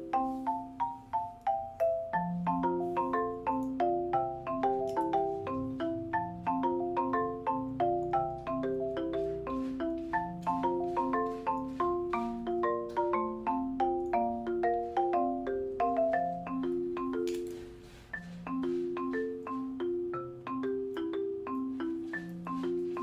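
Background music: a light, bouncy melody of quickly struck mallet-percussion notes, like a marimba or xylophone, over a bass line, with a short break about 18 seconds in.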